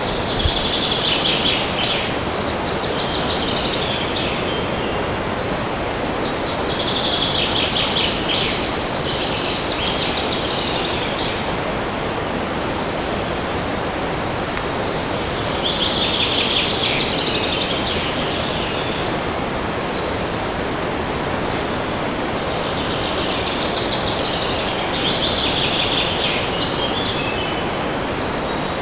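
A songbird singing a short, fast trilling phrase four times over a steady rush of wind in the forest trees.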